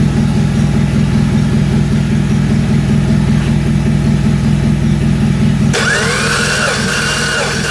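Subaru EZ30 3.0 L boxer six running steadily at idle. About two-thirds of the way through, the sound changes abruptly: the low engine note drops back and higher whining tones glide up and down.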